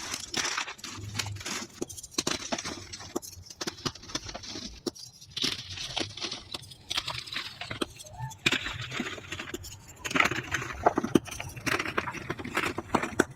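Reformed gym chalk being crushed and crumbled: a dense, irregular run of gritty crunches and crackles, played back at double speed.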